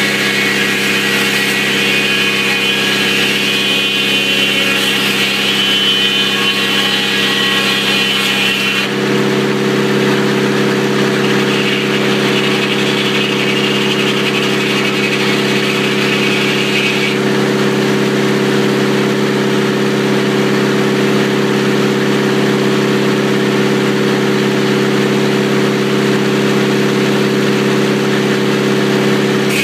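Sawmill's engine running steadily while the saw cuts through a telephone pole, with a high whine over it that drops away about nine seconds in, returns for a few seconds, then stops.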